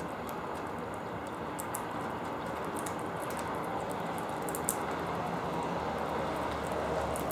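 Small birds pecking and husking seed at a feeder: scattered sharp little clicks over a steady hiss of background noise.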